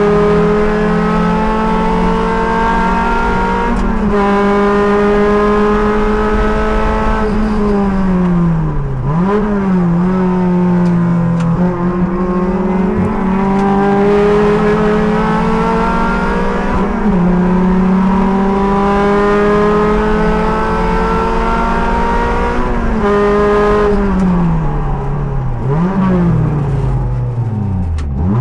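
Race car engine under hard driving, heard from the driver's seat. It holds at high revs, and its pitch falls and climbs back several times as the driver lifts and downshifts for corners, then accelerates out of them. The sharpest drop comes near the end.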